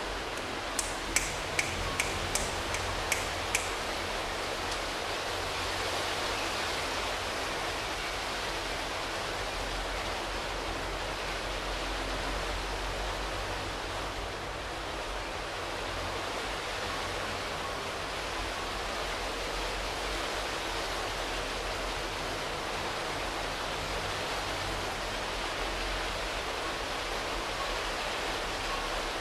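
Steady drizzle falling on leaves, an even hiss of rain. About a second in comes a quick run of about seven sharp ticks over roughly three seconds.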